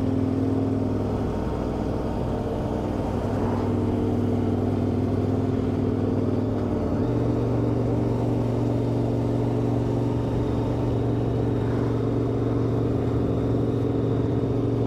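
KTM 1090 Adventure R's V-twin engine running steadily while the bike is ridden along the road, heard from on board. Its note steps up slightly about seven seconds in.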